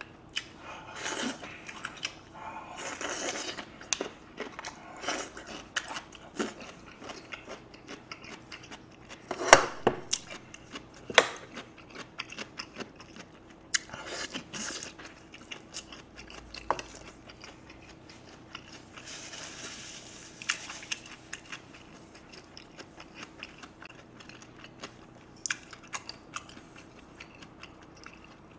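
Close-miked eating: chewing and crunching as he bites into cubed radish kimchi (kkakdugi) and eats spoonfuls of beef rib soup with rice. Scattered short, sharp clicks run throughout, the loudest a pair about ten and eleven seconds in.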